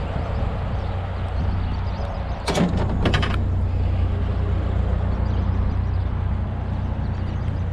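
GMC Sonoma pickup truck running with a steady low drone. About two and a half seconds in comes a brief clatter of a few sharp knocks and rattles.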